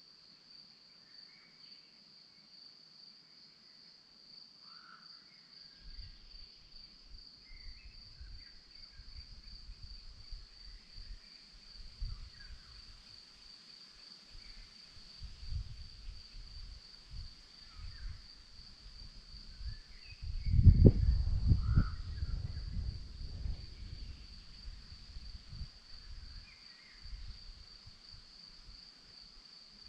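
Crickets chirring in one continuous high pulsing trill, with scattered short bird calls over it. From about six seconds in, low rumbling gusts come and go, loudest about two-thirds of the way through.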